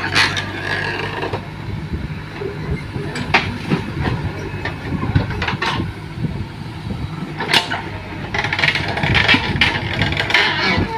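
Diesel engine of a JCB 3DX backhoe loader running under load, with a few sharp metallic knocks spread through it.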